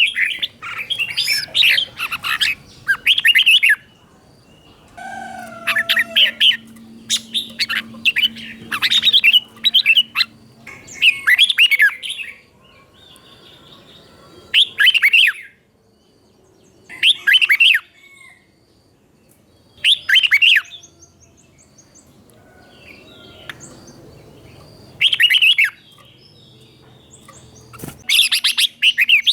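Red-whiskered bulbul singing a series of short, bright, warbling phrases, some run close together and others a few seconds apart with pauses between.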